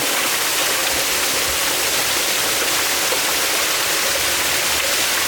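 Water gushing steadily from the open end of a pressurised turbine supply pipe that has pulled out of its coupling: an unbroken loud rush.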